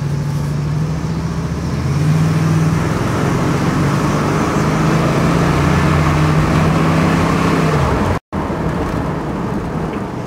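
1979 Pontiac Trans Am's Oldsmobile V8 running steadily while the car drives, heard from inside the cabin over road noise. The engine note steps up about two seconds in and falls near the end, just before the sound drops out for an instant.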